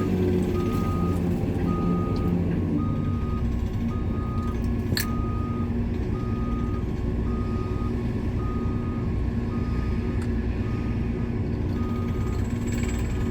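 A heavy machine's reversing alarm beeping steadily about once a second over a running diesel engine. One sharp click sounds about five seconds in.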